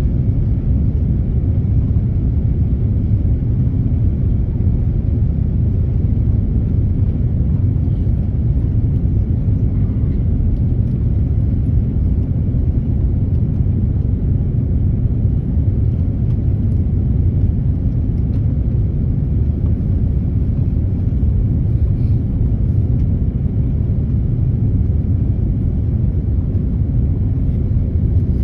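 Steady low rumble of an airliner in flight, engine and airflow noise heard inside the cabin during the landing approach, unchanging in level throughout.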